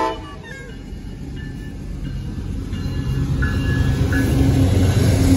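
CSX freight train's diesel locomotives passing close by at a grade crossing. A horn blast cuts off right at the start, then a low engine-and-rail rumble grows steadily louder as the locomotives go by.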